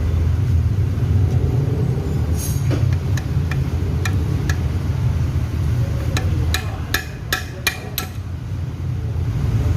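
Hammer blows on metal, knocking at a bearing in a Honda Beat FI's CVT gearbox case: about ten sharp, ringing strikes, spaced out at first and coming quicker near the end. A steady low hum runs underneath.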